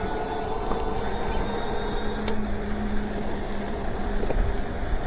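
Electric bike riding along, its hub motors whining in several steady tones over low wind and road rumble. A sharp click sounds once, a little after two seconds in.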